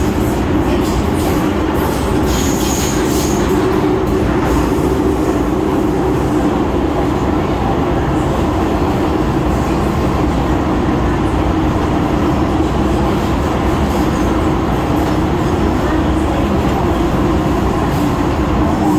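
MTR M-Train metro car running at steady speed: continuous rumble of wheels on rail with a steady motor hum. A brief high wheel squeal comes about two to three seconds in.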